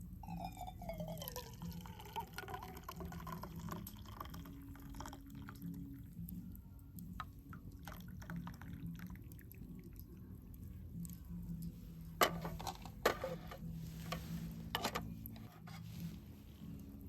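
Liquid being poured and dripping into a container, with a pitch that falls over the first couple of seconds, then scattered small drips and ticks. Three sharp clicks come in the second half, over a steady low hum.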